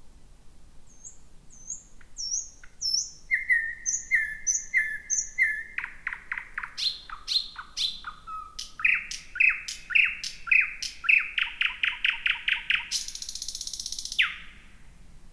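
Thrush nightingale singing one long song phrase: soft high repeated notes build into loud repeated clicks and fast trills, ending with a harsh rattling buzz and a falling note near the end.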